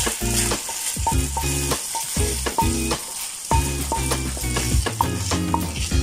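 Minced pork sizzling in a hot nonstick pan as a wooden spatula stirs it and pushes it aside, with background music playing over it.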